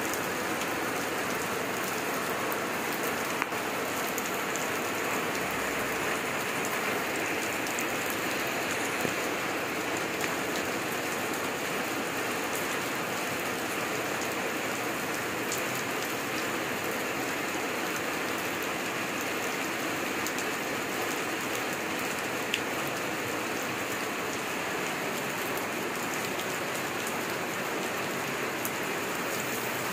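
Steady heavy rain falling on surfaces, with a few faint sharp drips or ticks standing out now and then.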